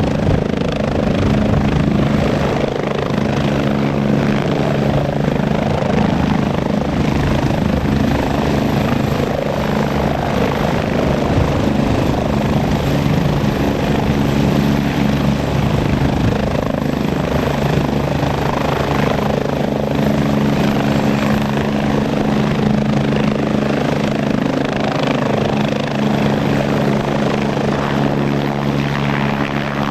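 Agusta A109E Power twin-engine helicopter running steadily, its rotor and turbines giving a constant loud hum of low tones over a broad rushing noise.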